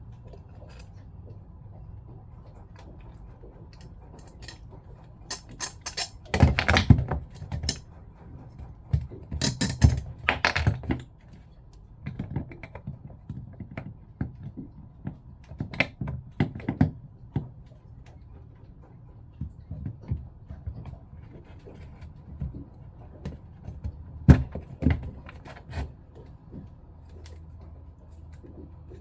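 Clicks, rattles and knocks of small hard pump parts and hand tools being handled as a Jabsco diaphragm pump is taken apart, coming in short clusters with quiet gaps between.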